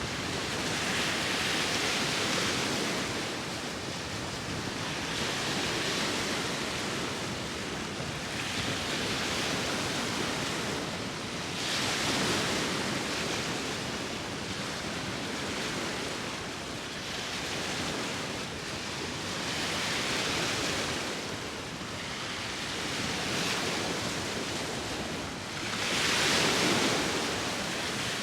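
Sea waves washing onto the shore in a steady rhythm, each swell of surf rising and falling every few seconds, the biggest one near the end, with wind mixed in.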